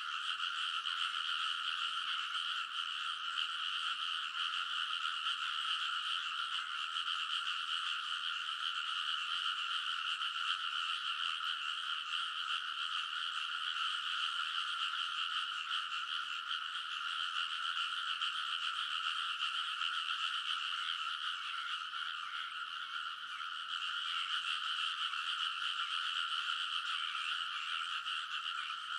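A dense chorus of many rice-paddy frogs calling at once, their croaks overlapping into a continuous, unbroken din.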